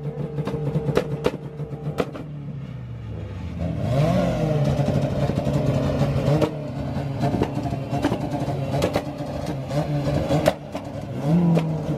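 Tuned Honda Civic engine held on a 2-step launch-control rev limiter: steady high revs broken by rapid sharp exhaust pops and bangs. The revs dip, then climb again about four seconds in, and there is another rev rise near the end.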